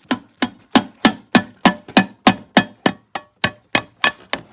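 Steady hammer taps, about three a second, tapping the crankcase side cover of an EZGO golf cart engine down onto the crankshaft to seat it without pushing out the crankshaft seal lip.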